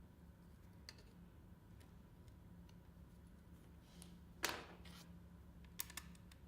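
Quiet, steady low hum with a few light clicks and one sharper knock about halfway through.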